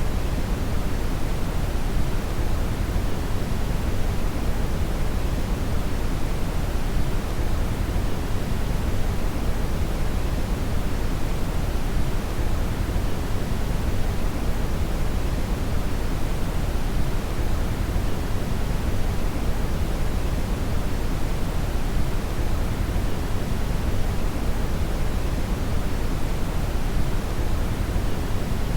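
Steady brown noise: a constant, deep hiss with most of its energy in the low end, unchanging throughout.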